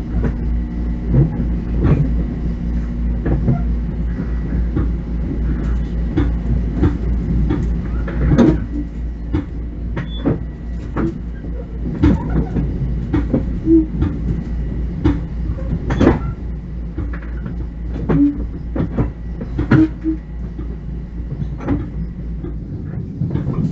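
Interior ride noise of a Bombardier M7 electric railcar under way: a steady low rumble with a faint steady whine, broken by frequent irregular clicks and knocks. The deepest part of the rumble falls away near the end.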